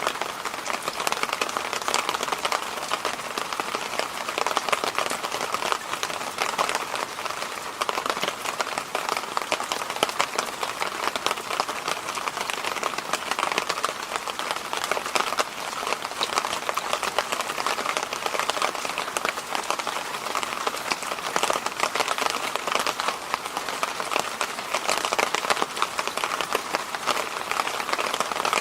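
Electric fan running steadily, an even rushing noise centred in the middle of the range with a fine crackly grain and no change in speed.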